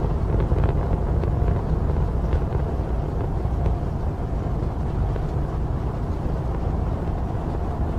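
Rocket engine rumble: a deep, steady roar with a few faint crackles in the first half.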